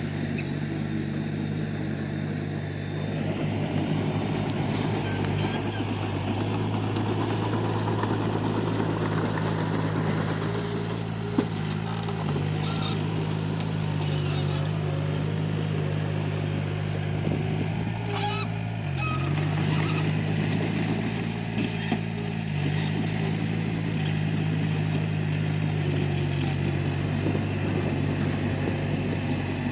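Komatsu D31P crawler bulldozer's diesel engine running steadily under load, with a busy mechanical rattle over it. The engine note dips briefly about two-thirds of the way through.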